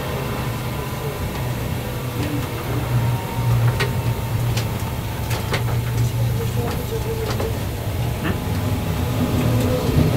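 Running noise heard inside a locomotive-hauled passenger coach at speed: a steady low rumble from the wheels and track, with scattered sharp clicks and rattles.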